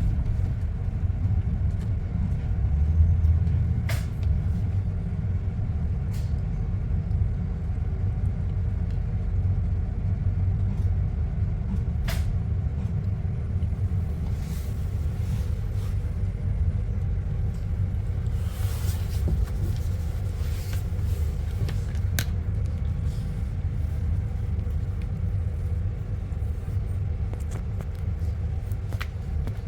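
Steady low rumble of a double-decker bus on the move, heard from inside. A few sharp clicks or rattles, and a short hiss a little past the middle.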